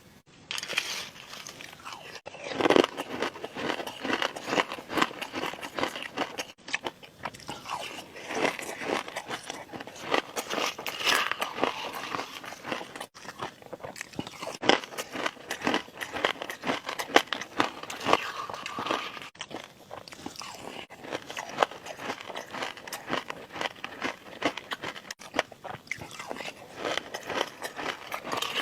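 Close-miked ASMR eating of a crunchy food: a dense, irregular run of crunching bites and chews that starts abruptly out of quiet.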